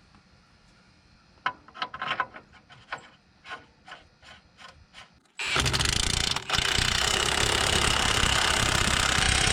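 A string of sharp, uneven metal clicks from hand tools working on a brake backing plate. Then, about five seconds in, a loud power tool starts suddenly and runs steadily, with one brief break, as the bolts are driven in.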